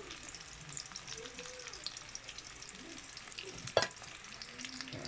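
Sliced sweet potato frying in hot oil in a wok: a steady crackling sizzle with small pops, and one sharp knock a little under four seconds in.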